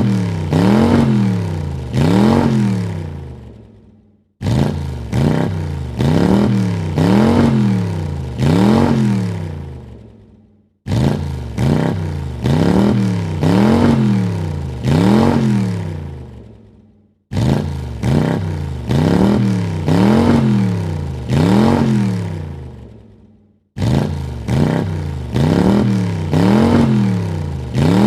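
Car engine revved in quick throttle blips, about four rises and falls in pitch in a row, each group dying away into a short silence. The same burst of revs repeats about every six and a half seconds.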